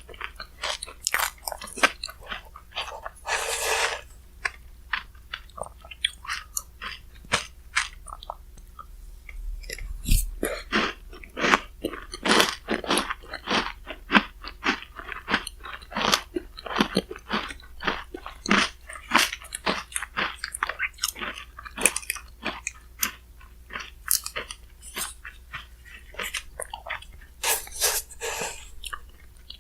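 Close-miked chewing and crunching of shaved-ice bingsu topped with crunchy chocolate-chip cookie pieces: a dense run of sharp crunches, with a longer rustling crunch about 3.5 s in and again near the end.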